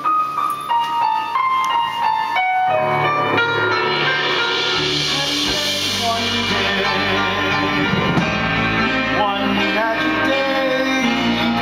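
Live band music: a slow descending line of single held notes, then the full band comes in with sustained chords about two and a half seconds in, and a bass joins a couple of seconds later.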